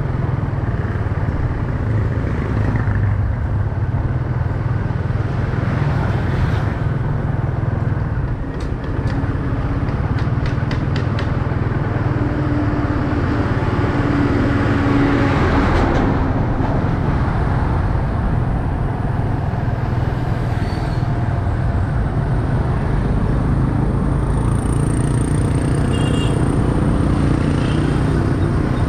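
Motorcycle riding through city traffic: steady engine rumble with road and traffic noise.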